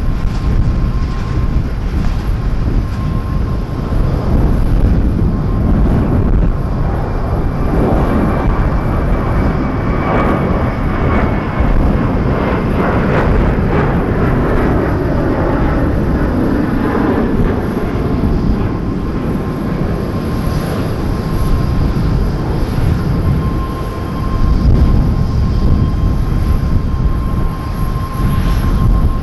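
Jet airliner on landing approach passing the spotter, a loud steady rumble with a high engine whine that slowly falls in pitch near the middle.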